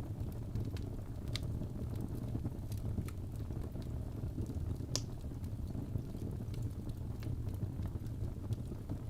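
Wood fire burning in a fireplace: a steady low rush from the flames with scattered sharp crackles and pops from the burning logs, the loudest pop about five seconds in.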